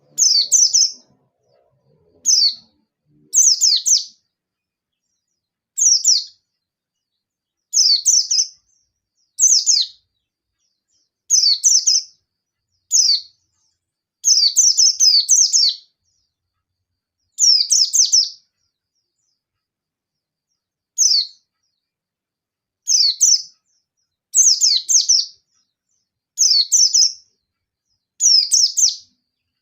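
Yellow-breasted white-eye (pleci dakun) singing in its rapid 'nembak' style: about fifteen short, high, fast twittering bursts, each under about a second and a half, repeated every second or two. This is the challenge song used to call out a rival.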